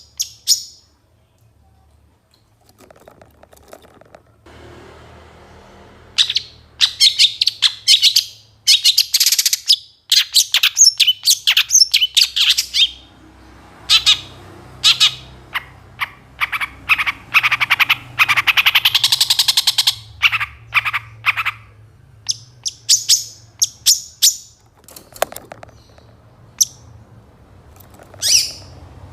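Long-tailed shrike singing: after a short lull, rapid runs of high chirps and trilled phrases that come thickest in the middle and break off in short pauses, the varied song full of imitated calls of other birds.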